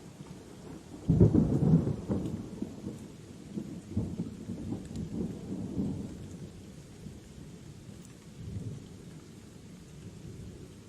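Thunder over steady rain: a sudden clap about a second in that rumbles on for several seconds, followed by a softer, shorter rumble near the end.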